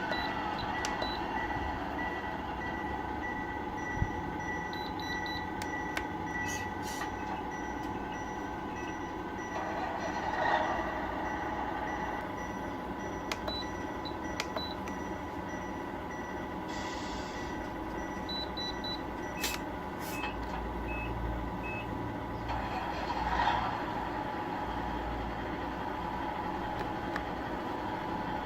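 Tamiya 1/14 scale RC trucks' electronic sound units playing a steady simulated truck engine running sound through small speakers. Short repeated electronic beeps are heard several times over it, with a few clicks.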